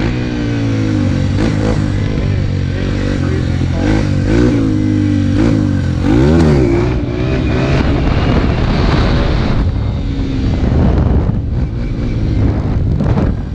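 Dirt bike engine running and revving, its pitch rising and falling over and over, with a sharp rev up and back down about six seconds in.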